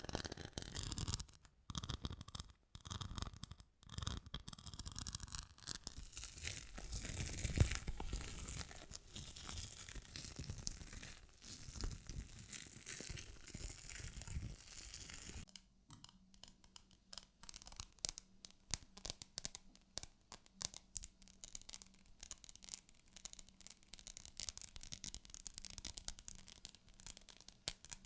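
Close-miked ASMR trigger sounds: dense scratching or rubbing against the microphone, with short breaks. About halfway through it changes abruptly to quick, light tapping clicks.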